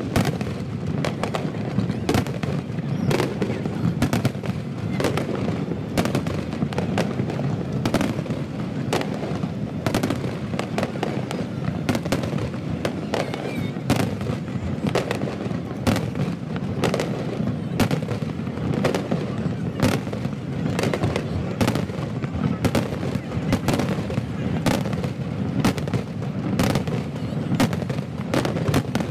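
Aerial fireworks barrage: dense, rapid bangs and crackles of bursting shells, several a second, over a continuous low rumble, played back at double speed.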